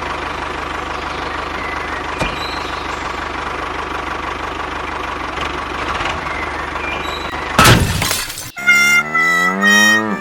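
Steady engine-like running noise for about seven and a half seconds, then a sudden loud crash, followed by a whistling tone that slides steadily downward.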